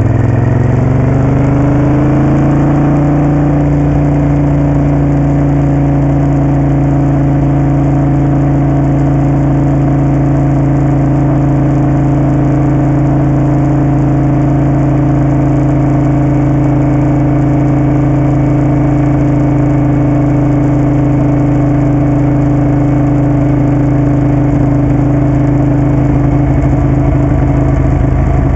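Moto Guzzi Café Sport V-twin engine climbing in pitch over the first few seconds, then running at a steady speed.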